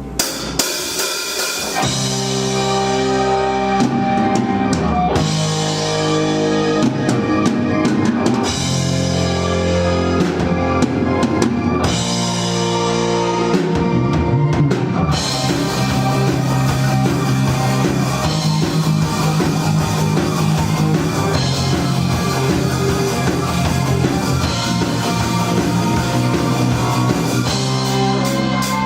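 Live amateur rock band playing an instrumental passage on drum kit, bass and electric guitar. A couple of sharp drum hits come about half a second in, and the full band comes in about two seconds in.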